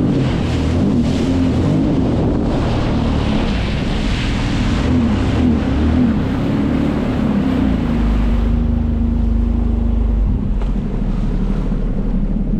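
Jet ski engine running under way, its pitch wavering up and down with the throttle, over wind on the microphone and rushing water; the engine note settles steadier about two-thirds of the way through.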